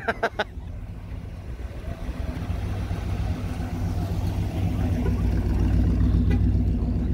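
A car engine running at low revs with a steady low rumble, growing louder from about two seconds in as the car comes close.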